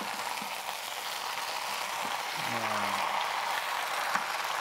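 Dakgalbi, chicken and cabbage in chili sauce, frying in a pan with a steady sizzle while being stirred with wooden spatulas.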